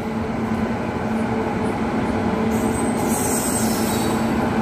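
Express train hauled by an electric locomotive rolling slowly into a station platform: a steady rumble with a low, even hum that grows slightly louder as it approaches, and a high hiss joining in about halfway through.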